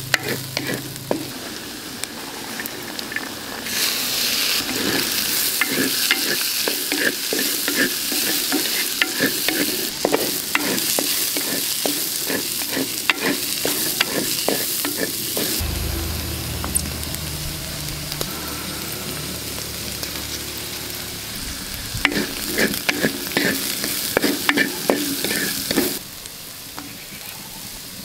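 Diced carrots, onion and peas frying and sizzling in a terracotta clay pot, stirred with a wooden spatula that scrapes and knocks against the pot over and over. The sizzle grows louder about four seconds in, and the stirring stops shortly before the end.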